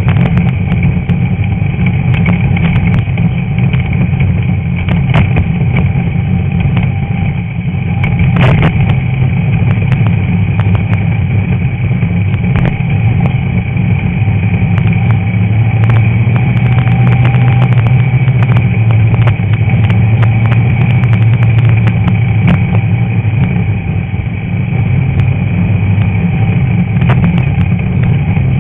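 Stock VW Beetle's air-cooled flat-four engine running hard under race load, heard from the hood, with scattered sharp knocks and rattles from the car.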